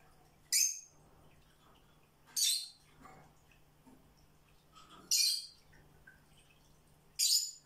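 A bird chirping: short high chirps repeated about every two seconds, over a faint low steady hum.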